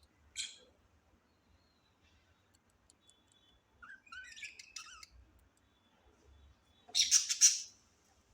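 Parrots calling: a short call just after the start, a quick run of chirps about four seconds in, then a loud burst of squawks about seven seconds in.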